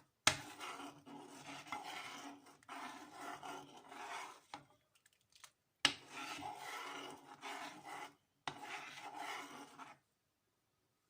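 Scraping and rubbing in a small kitchen vessel in three long stretches, each starting with a sharp knock, as saffron threads are worked into a little hot milk.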